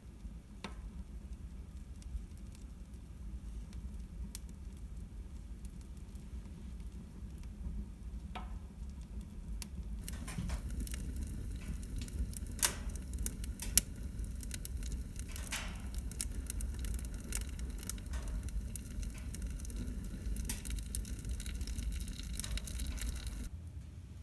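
Burning firewood crackling and popping over a low steady rumble. The crackles grow denser about halfway through, with two sharper pops soon after.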